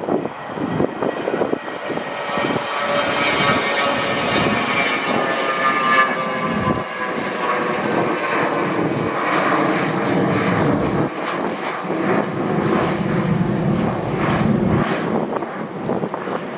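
Airliner passing close by, its engines' whine a cluster of tones slowly falling in pitch. Gusting wind rumbles on the microphone.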